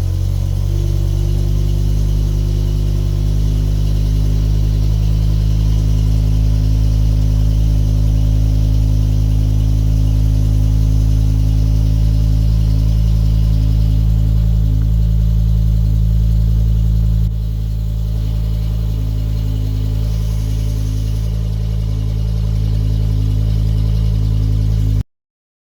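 A BMW E60 M5's V10 engine idles fast and steady just after a cold start, through a Valvetronic Designs aftermarket catback exhaust. The level drops slightly about two-thirds of the way in, and the sound cuts off abruptly near the end.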